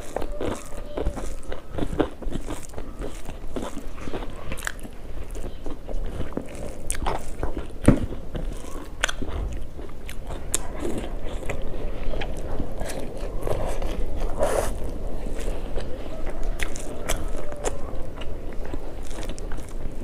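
A person biting and chewing food, with irregular clicks and crunches; one sharper crunch about eight seconds in.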